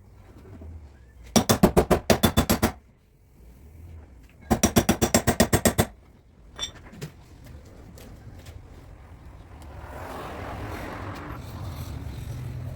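Two quick runs of hammering on car-body sheet metal, each about a second long at roughly ten blows a second. A steady rushing noise builds up over the last few seconds.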